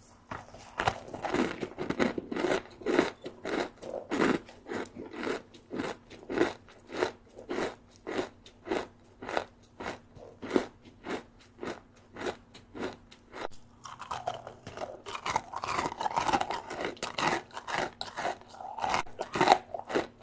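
Close-up crunching of a crisp rice snack being chewed, about three crunches a second, with a denser, noisier stretch of chewing in the last few seconds.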